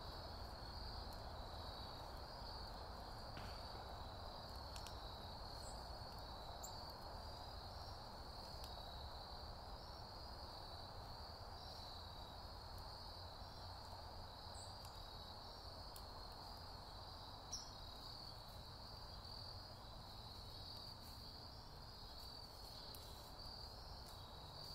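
Wood fire in a stone fire pit crackling with scattered soft pops, one sharper pop about 17 seconds in, over a steady trill of crickets.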